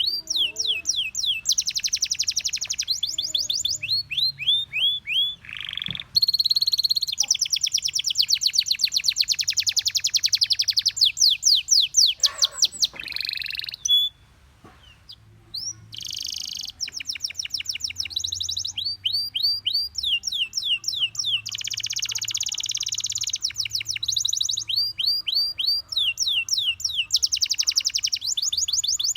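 Gloster canary singing: fast trills alternating with runs of quick, repeated down-slurred notes, broken by a brief pause about halfway through.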